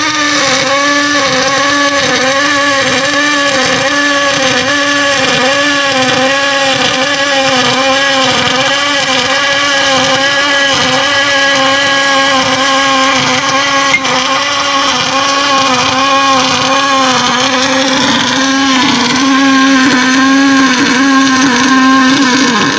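MIG welding arc buzzing steadily, its pitch and loudness pulsing in an even rhythm a little under twice a second, as a weld bead is laid. It gets louder and steadier near the end, then cuts off as the arc stops.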